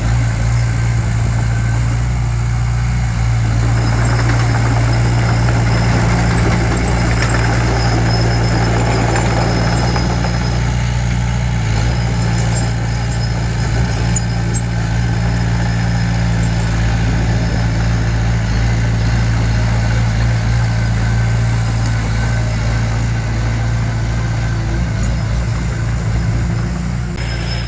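Heavy construction machine's diesel engine running steadily at an even speed, a deep steady drone, with a rougher, noisier stretch from about four to ten seconds in.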